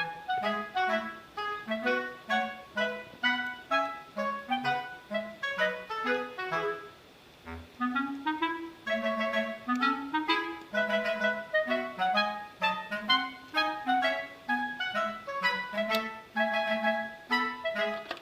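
Background music: a clarinet-like melody of short notes over a bouncing bass line, with a brief pause about seven and a half seconds in.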